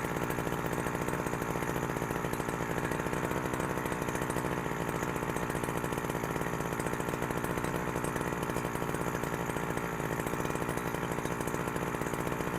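Two-stroke chainsaw engine of a Husqvarna 372XP clone running steadily at a constant low speed, with no revving, while its carburettor is being tuned.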